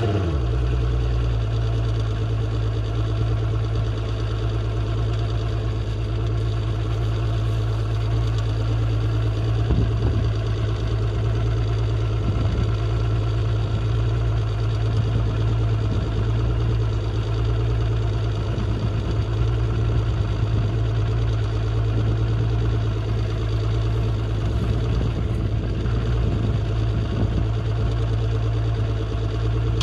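Mercury 150 OptiMax V6 two-stroke outboard catching right at the start and then idling steadily, run out of the water on a flushing attachment for a pre-season start-up check.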